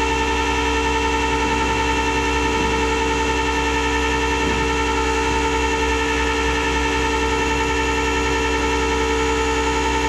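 A flatbed tow truck's hydraulic system running with a steady mechanical whine made of several fixed tones, as the truck winches the car aboard.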